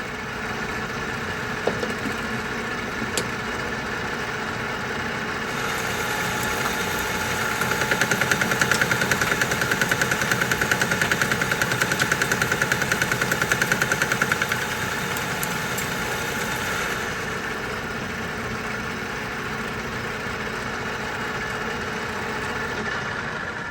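Metal lathe running with a carbide-tipped boring bar cutting the bore of a steel press plate. A few seconds in, the cut grows louder, with a rapid even pulsing for several seconds. It then eases back to the steady running of the machine.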